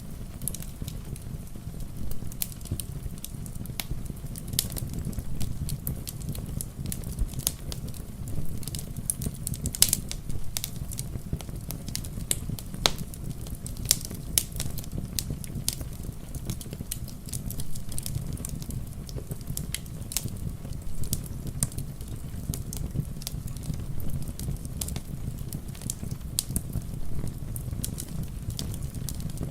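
Wood fire in a fireplace crackling, with irregular sharp pops and snaps over a steady low rumble of rain.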